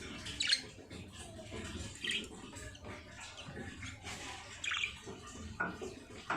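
Baby birds giving a few short, high cheeps, a second or two apart, over a low background hiss.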